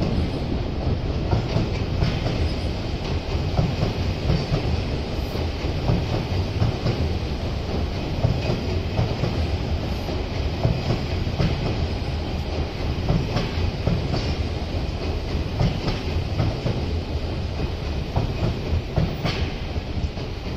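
Odakyu Line electric commuter train passing close by: the steady low rumble of its cars, with wheels clicking over rail joints.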